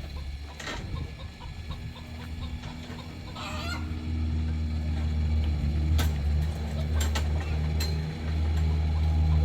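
A chicken calls once, briefly, about three and a half seconds in. Under it runs a steady low motor hum that grows louder about four seconds in, with a few sharp knocks.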